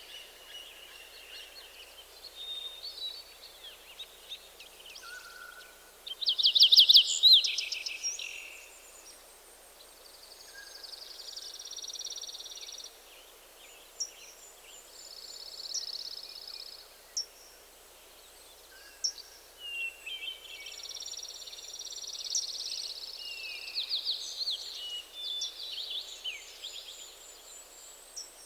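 Several forest songbirds singing over a faint steady hiss, with chirps, whistles and buzzy trills overlapping. One loud, rapid trill stands out about six to eight seconds in.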